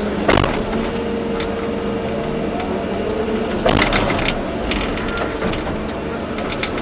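Volvo EC240B excavator's diesel engine and hydraulics running steadily. Sharp knocks come about a third of a second in and again near the middle.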